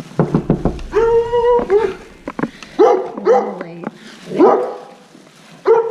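Dog barking and whining in high-pitched calls: one drawn-out whine about a second in, then several short yelps, with a few quick knocks just before.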